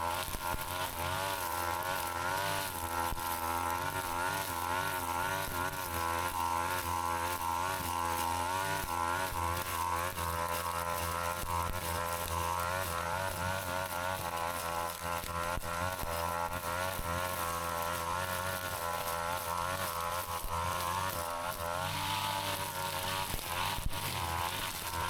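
Brush cutter engine running steadily, its pitch wavering slightly up and down.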